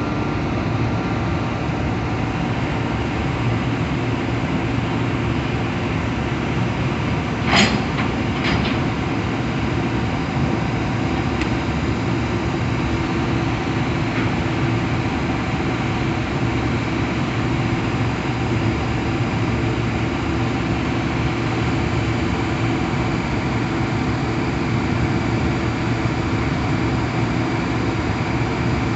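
Train running close by with a steady rumble, and one brief sharp sound about seven and a half seconds in.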